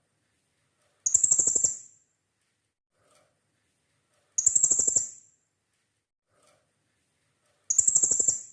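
Blue-crowned hanging parrot (serindit) giving a shrill, rapidly pulsed call three times, each under a second long and about three seconds apart.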